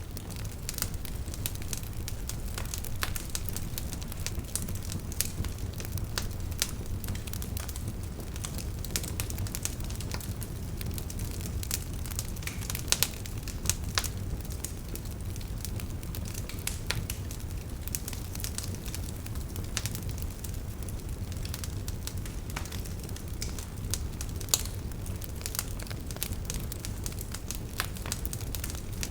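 Wood campfire burning, a steady low rumble of flames with frequent irregular crackles and occasional sharper pops.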